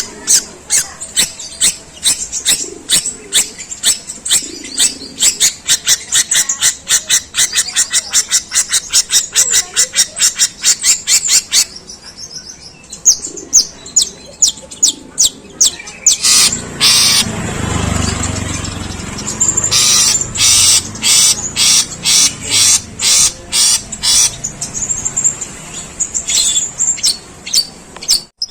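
Long-tailed shrike (pentet) singing its harsh 'gerejaan' string, sparrow-like chirps mimicked in long, rough runs of about four notes a second. Partway through the run breaks off, resumes in scattered notes with a brief low rumble, then turns rapid again.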